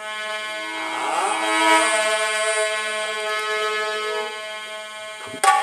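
Harmonium playing an introduction of long held reedy notes with a few note changes, then a few quick tabla strokes near the end as the accompaniment starts.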